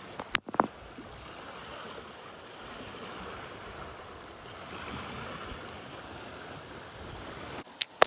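Three sharp knapping strikes on a piece of limestone within the first second, the last ringing briefly. A steady rush of stream water follows, and two more sharp clicks come near the end.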